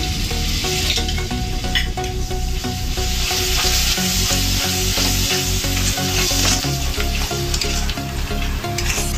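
Beaten yogurt being stirred into frying masala in a metal kadai over a lowered gas flame: a steady sizzle with a spatula scraping and stirring through the pan. The sizzle grows louder from about three seconds in.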